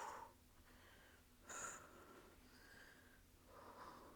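Faint breathing of a person exercising, with a short sharp exhale about a second and a half in and a softer breath near the end, over near silence.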